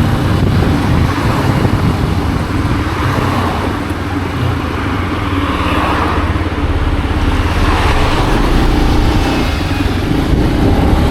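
Benelli BN125's single-cylinder 125cc engine running under way, the engine note easing off about four seconds in and picking up again later.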